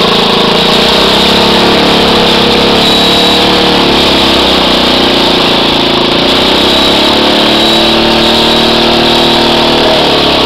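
Small engine of a homemade mini mining tractor running steadily, its pitch shifting a little in the middle as the machine's functions are worked.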